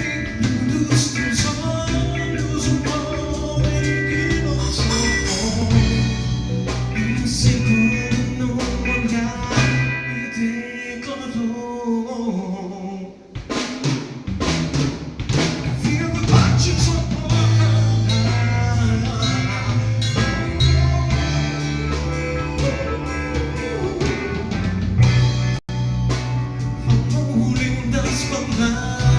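Band music with drum kit, bass and guitar. About ten seconds in the bass drops out for a few seconds, then a drum hit brings the full band back in.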